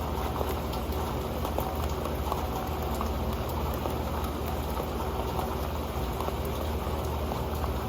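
Rain falling steadily onto an old pan: a dense, even patter of drops with many small ticks on its surface.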